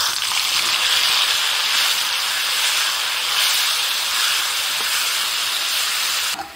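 Wet ground radish and tomato paste sizzling loudly as it hits hot mustard-oil tempering in a kadhai. It is one steady hiss that cuts off suddenly near the end.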